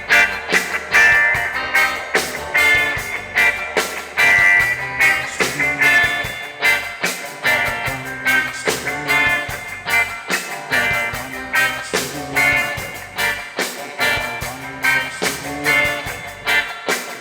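Reggae band playing live without vocals, guitar to the fore over a steady drum beat.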